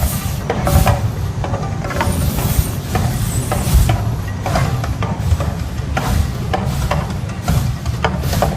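Mirage volcano show erupting: a loud, continuous deep rumble with short hissing whooshes about once a second.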